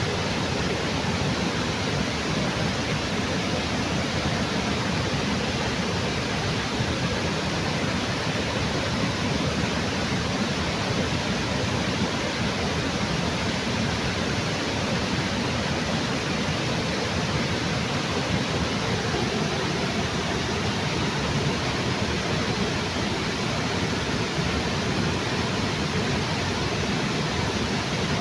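River waterfall pouring steadily: a dense, even rush of falling water with no breaks or changes.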